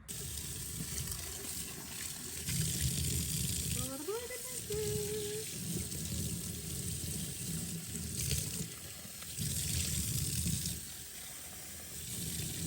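Tap water running into a sink and splashing, its sound swelling and dipping as the stream hits something held under it. A brief rising squeak-like tone about four seconds in.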